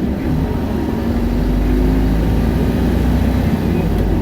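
Isuzu Erga city bus's four-cylinder diesel engine pulling at high revs as the bus accelerates, heard from inside the cabin over road noise. It grows a little louder about a second in.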